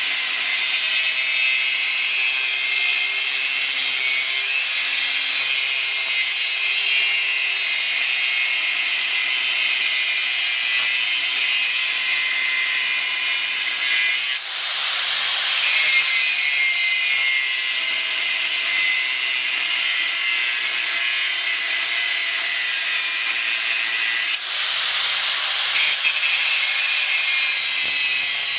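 Power tool cutting or grinding steel plate: a steady, loud, high-pitched hiss that breaks off briefly and picks up again twice.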